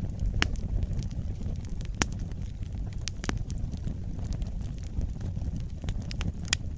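Wood fire burning in a fireplace: a steady low rumble of the flames with scattered sharp crackles and pops, a loud pop about two seconds in and another near the end.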